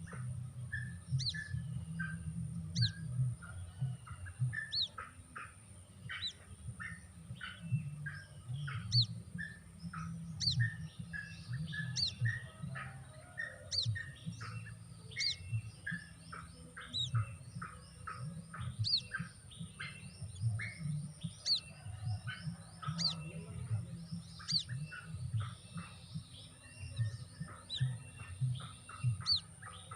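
White-breasted waterhen chick calls used as a lure: high rising chirps repeated every second or two, with shorter peeps in between and a low rumble underneath.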